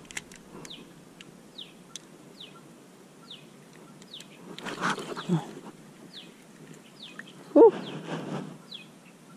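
A bird repeating a short, high, falling note about once a second. There is a brief rustle about five seconds in, and near the end a short, louder pitched sound that rises and falls.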